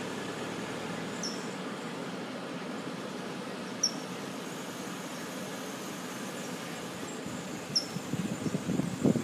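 A few short, high chirps of a small bird, each a quick falling note, several seconds apart over a steady low background hum. Near the end, louder rumbling and knocking noise begins.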